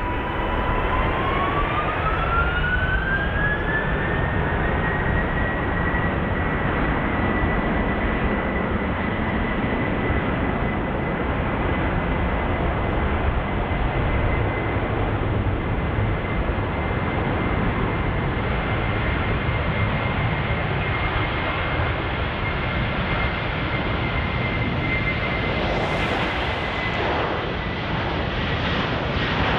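Airliner jet engines spooling up to takeoff thrust: a whine climbs over the first few seconds, then holds at one steady high pitch over a constant roar.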